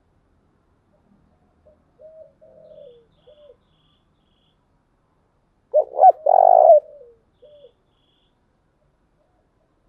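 Spotted dove cooing as a lure call: a few soft coos a couple of seconds in, then one much louder coo phrase a little past halfway, followed by a short soft note.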